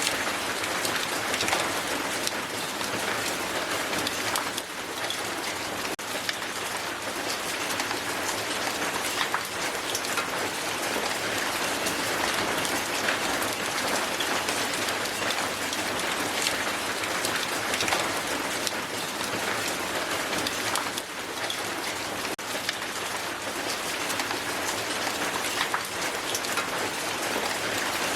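Strong hail falling steadily on the ground: a dense hiss of many small ice impacts, with distinct sharper clicks scattered through it.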